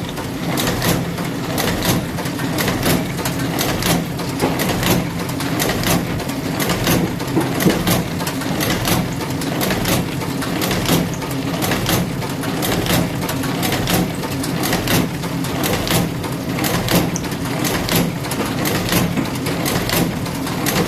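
Brehmer book-sewing machine running, a steady mechanical hum broken by repeated sharp clicks.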